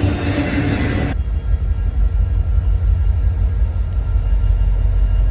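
Railroad train noise: a loud rushing sound cuts off abruptly about a second in, and a steady low rumble carries on.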